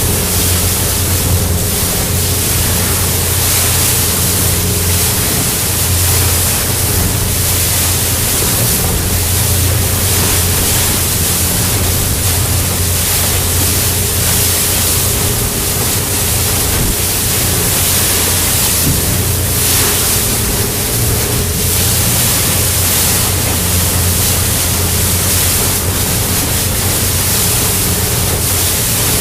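Boat engine running steadily under way, a low hum with a thin steady whine, buried in loud rushing wind and water noise on the microphone.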